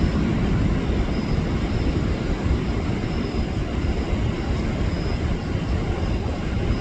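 Jet airliner engines running, a steady, loud rumbling roar heavy in the low end.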